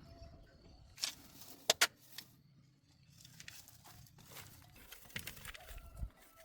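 A few sharp clicks and clinks of tools and parts being handled, the loudest a quick pair just under two seconds in, with scattered lighter clicks after.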